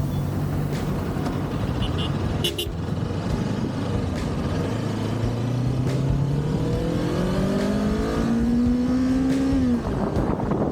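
Kawasaki Ninja 400's parallel-twin engine running through its stock exhaust, with wind rushing over the microphone. About halfway in the revs climb steadily, then the pitch drops sharply near the end.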